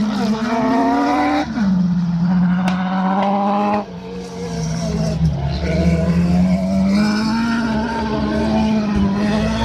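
Autocross race car engines at high revs. The pitch climbs, then drops sharply at an upshift about a second and a half in. The sound cuts back sharply a little before the halfway point, then builds again and runs steadily.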